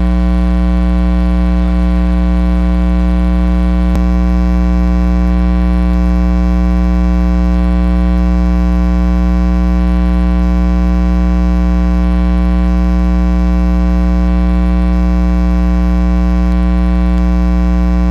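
Loud, steady electrical mains hum with a buzzing stack of overtones, unchanging throughout, and a single faint click about four seconds in.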